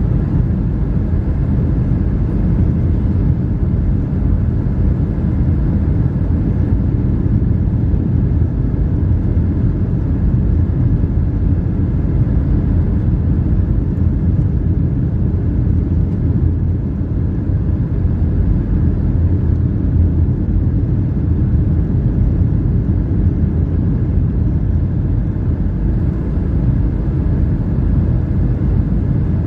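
Cabin noise inside a Boeing 757-300 airliner: a steady low rumble of the engines and the air rushing past the fuselage, even throughout.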